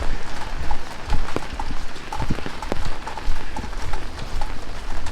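Heavy rain falling on a street, with footsteps on wet pavement about once a second and scattered sharp ticks of drops.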